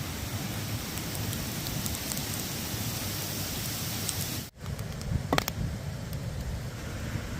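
Steady rain falling, with fine scattered drop ticks. About four and a half seconds in the sound cuts out abruptly for a moment, then returns as a steady hiss with a couple of sharp clicks soon after.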